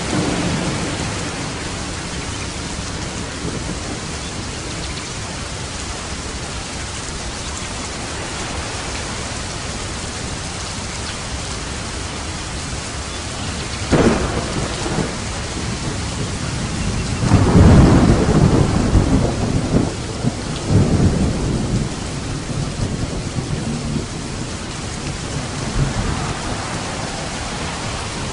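Steady heavy rain on a roof with thunder: a rumble at the start, a sharp crack about halfway, then the loudest long rolling peal of thunder a few seconds later, with fainter rumbles near the end.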